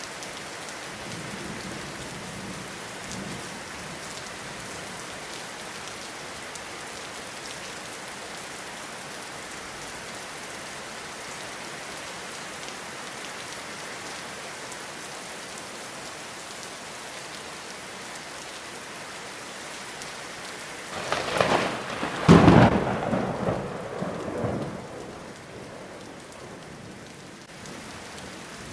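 Steady heavy rain falling, with a loud crack of thunder about three-quarters of the way through that rolls into a rumble lasting a few seconds. Fainter low rumbles of thunder can be heard near the start.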